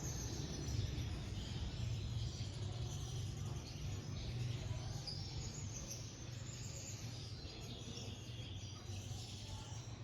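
Mixed aviary finches and other small cage birds chirping and twittering, many short high calls overlapping, over a steady low hum.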